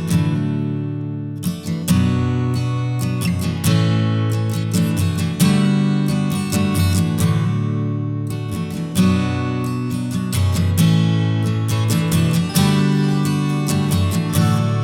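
Background music: acoustic guitar strumming chords in a slow, even rhythm.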